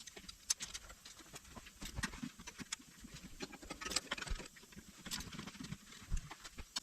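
Irregular clicks, clinks and light knocks of hand tools and metal parts being handled during work on a Suzuki K6A engine, with a few duller thumps.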